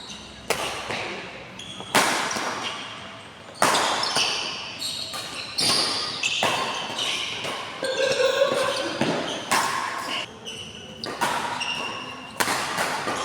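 Badminton rally: rackets striking the shuttlecock about every one and a half to two seconds, each hit echoing in a large hall, with short high squeaks between the hits.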